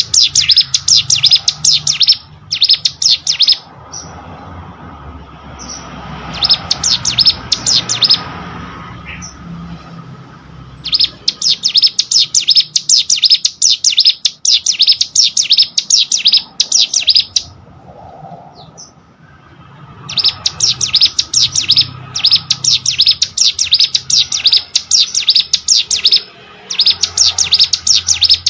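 Ciblek sawah, a small prinia, singing: long runs of rapid, high-pitched chirping notes lasting a few seconds each, broken by short pauses, with a faint low hum underneath.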